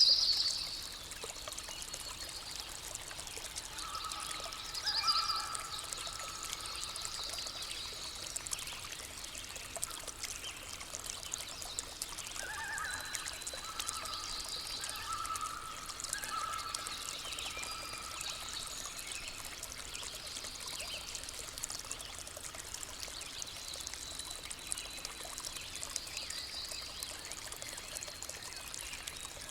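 A small stream or brook trickling steadily, with forest birds calling now and then: short rapid high trills, loudest right at the start and again several times later, and a few lower whistled notes in between.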